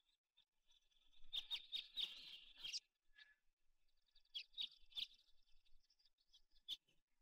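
Faint bird chirping in short clusters, one group about a second in and another around four to five seconds in, with a soft click near the end.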